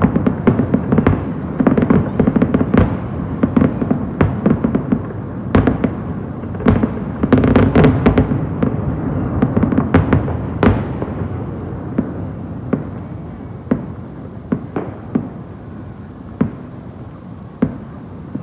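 Fireworks exploding: many rapid bangs over a continuous rumble, thinning after about ten seconds to scattered single bangs as the rumble dies down.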